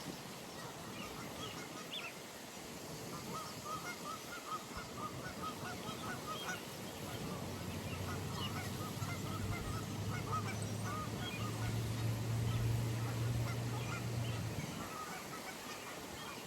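Geese honking at the pond, many short calls in quick succession. A low steady drone comes in about halfway through and stops near the end.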